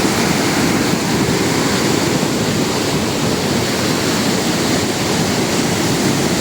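Rushing water flowing steadily, an even, loud noise without breaks.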